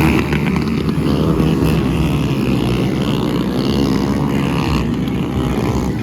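Small single-cylinder four-stroke motorcycle engine running hard, its pitch rising and falling as the throttle is worked.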